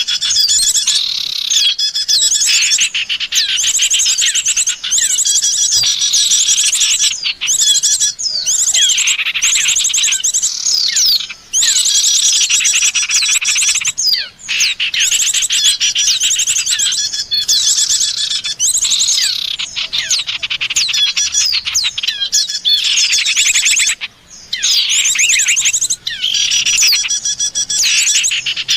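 A bird-luring recording of small songbirds calling: dense, overlapping high chirps, fast trills and rapidly repeated notes, broken by short pauses about every twelve seconds.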